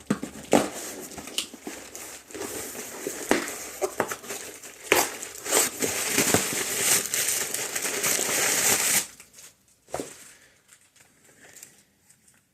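Shipping package being torn open and its packaging crumpled by hand: a dense crinkling with sharp snaps that stops about nine seconds in, followed by one more sharp crackle.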